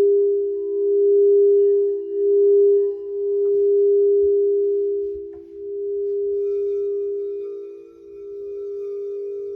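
Crystal singing bowls ringing: one bowl holds a steady low tone that swells and fades in slow pulses, and a second, slightly higher bowl tone joins about six seconds in.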